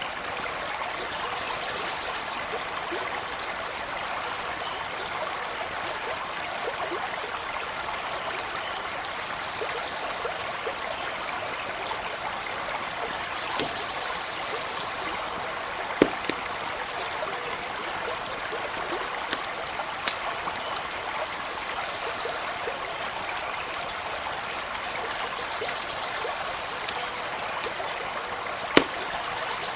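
A small stream running steadily, with scattered sharp pops and crackles from a campfire, a few of them loud in the second half.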